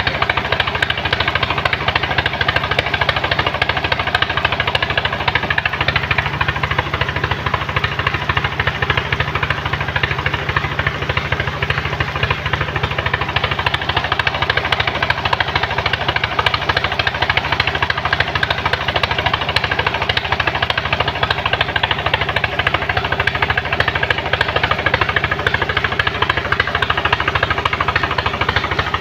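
Truck engine running steadily with a loud, fast, even knocking clatter.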